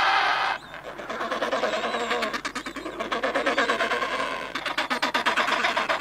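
A colony of African penguins braying: many overlapping, pulsing calls. The calls ease off briefly about half a second in, then carry on.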